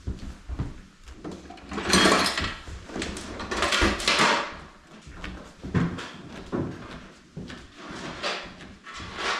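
Clattering knocks and scraping handling noises, with two longer, louder scraping rushes about two and four seconds in.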